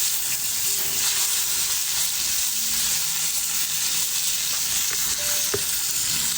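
Food sizzling and frying in oil in a pan over a wood fire: a steady hiss, with a single sharp click about five and a half seconds in.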